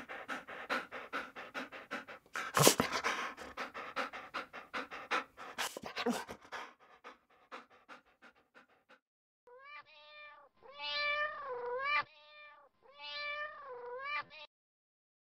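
A small dog panting quickly for about six seconds, then a kitten meowing three times, each call bending up and down in pitch.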